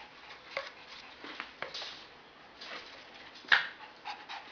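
Shih tzu at play: scattered faint scuffles and clicks, with one sharp, louder sound about three and a half seconds in.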